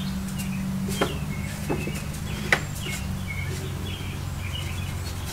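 Birds chirping in short calls over a steady low hum, with a few light taps.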